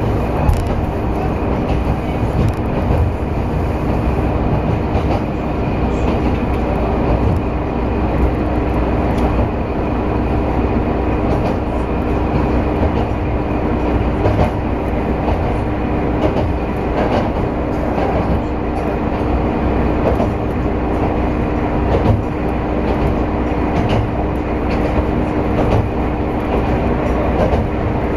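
A diesel railcar heard from inside its cabin while running at speed. Its engine and running noise make a steady rumble with a steady hum, and the wheels click over the rail joints at irregular intervals.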